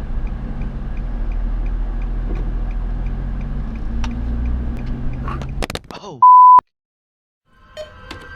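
A car engine running with a steady low drone and faint regular ticking, which stops about five and a half seconds in. A short, loud, single-pitched beep follows, then a moment of silence, and music begins near the end.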